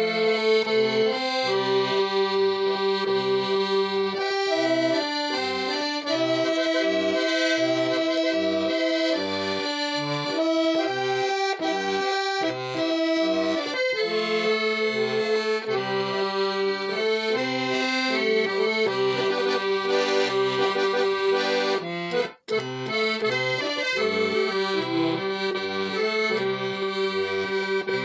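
Accordion music: held melody notes and chords over an alternating bass. It cuts out for an instant about 22 seconds in.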